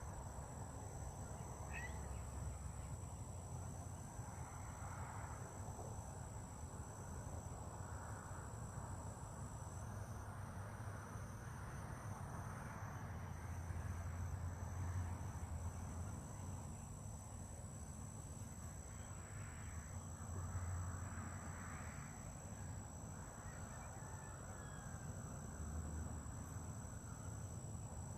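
Insects trilling steadily at two unbroken high pitches, over a low outdoor rumble that swells now and then.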